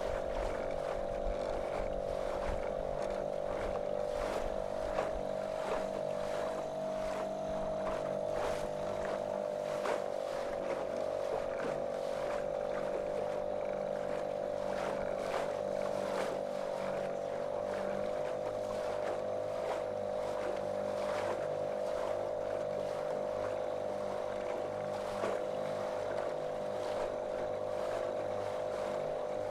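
Small motorboat's motor running at a steady, monotonous pitch that dips slightly about a third of the way in, with frequent short splashes and knocks of water against the hull.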